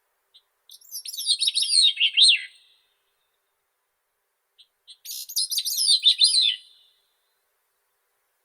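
Grey-cheeked thrush singing: two thin, high song phrases of quick falling notes spiralling downward, each about two seconds long and opening with a couple of soft short notes, with a pause of a couple of seconds between them.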